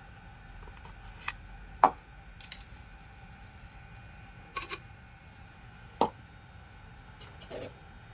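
Small metal parts and hand tools clicking and knocking as they are handled and set down during the rotary hammer's repair: about six separate light knocks, some in quick pairs, the loudest about two seconds in.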